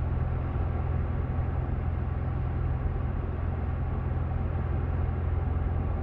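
Steady road and engine noise inside a moving car's cabin: an even low rumble with a hiss above it.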